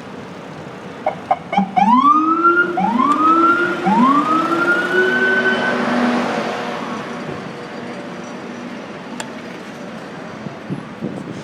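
Emergency vehicle siren: a few short blips, then three rising whoops, the last one held longer before it fades. Underneath is the steady wind and road noise of a handlebar-mounted phone on a moving bicycle.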